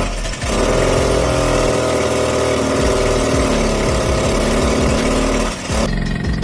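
1979 Suzuki JR50's small two-stroke single-cylinder engine running at a steady speed after being refuelled. It cuts off abruptly about six seconds in.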